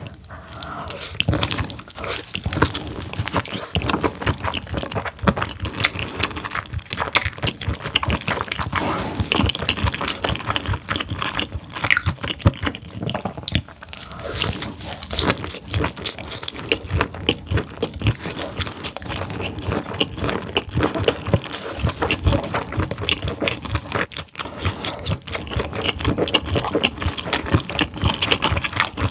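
Close-miked eating of whole steamed squid with its innards: biting and wet chewing, a dense run of sticky clicks and smacks.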